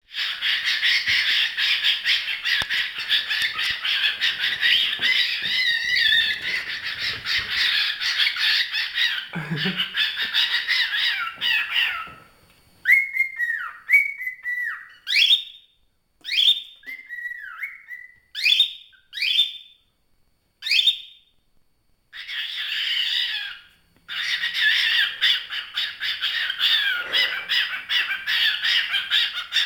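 Pet bird chattering and whistling in a dense, continuous run of chirps; midway the chatter gives way to about ten separate short whistled calls that swoop up and down, before the chatter starts again.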